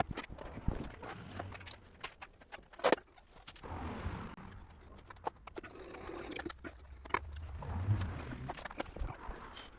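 Irregular clicks, knocks and footsteps with a low rumble, the handling noise of a heavy touring motorcycle being pushed around by hand.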